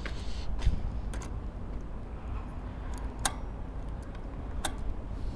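A handful of sharp, irregularly spaced clicks from a road bicycle's parts and tools as an adjustment is tightened bit by bit, over a steady low rumble.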